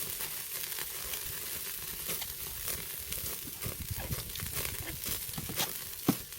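Pork neck sizzling on a grill over a charcoal brazier: a steady hiss with many small crackles as fat spits, and one sharp pop about six seconds in.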